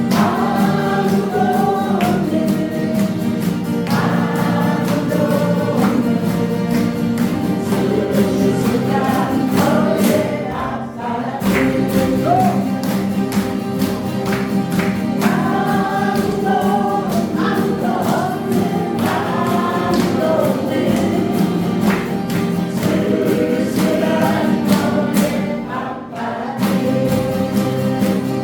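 A group of voices singing a song together to acoustic guitar accompaniment, with short breaks between phrases.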